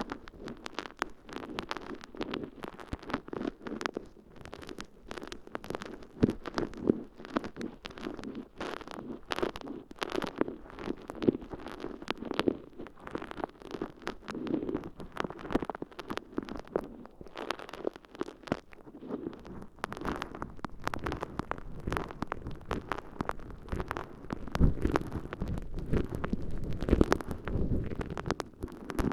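Water-soaked sponge squishing and crackling as it is pressed and rubbed inside a microphone's ear canal, a dense run of wet crackles. Heavier, deeper squelches come near the end.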